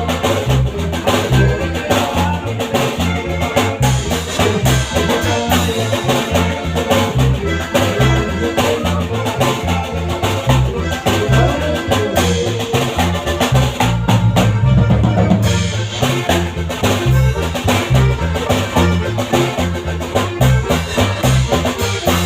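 Norteño band playing an instrumental passage, with a bass line of short repeated notes under a drum kit.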